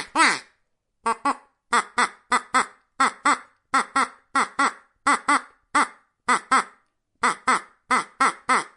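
Duck quacking: a steady run of short, nasal quacks, mostly in quick pairs, several a second.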